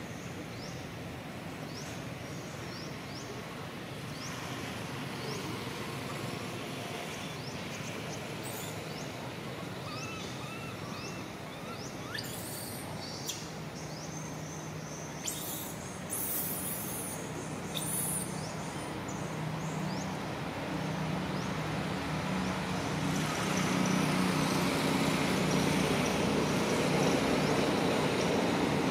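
Outdoor ambience with birds chirping in short repeated calls, a few brief high buzzing bursts about halfway through, and a low engine-like drone from a passing vehicle that grows louder over the last several seconds.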